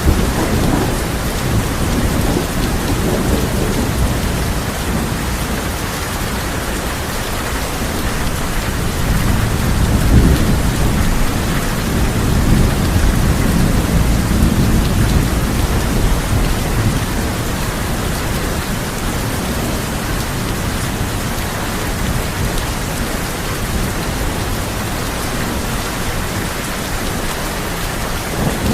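Heavy rain drumming on a tin roof with rolling thunder. The thunder swells at the start, again from about ten seconds in, and once more near the end.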